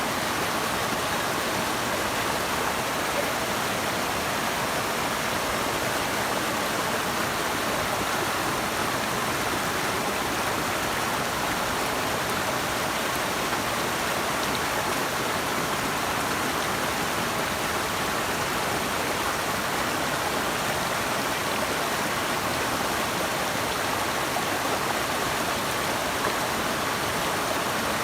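Steady rush of running water, with no change in level.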